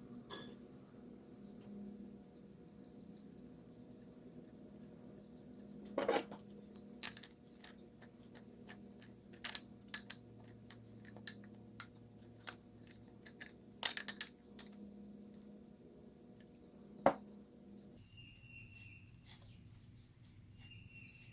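Scattered sharp clicks and knocks of small objects being handled while 5-minute epoxy is mixed and applied, the loudest about six, fourteen and seventeen seconds in, over short high chirps repeating every second or two.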